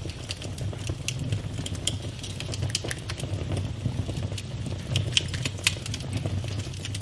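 Campfire burning with a steady low rumble and frequent irregular crackles and pops of the burning wood.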